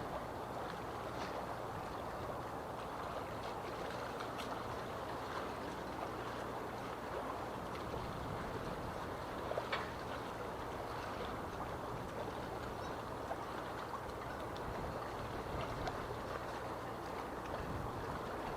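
Small harbour waves lapping and splashing against the marina's quay and moored boats, a steady wash of water with scattered little splashes and a slightly louder splash about nine and a half seconds in. A faint low hum runs underneath.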